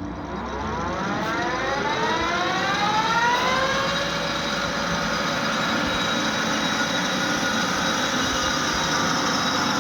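LeBlond Makino 19" x 54" servo shift lathe spindle and gear train spinning up, a whine rising in pitch for about four seconds, then running steady at speed.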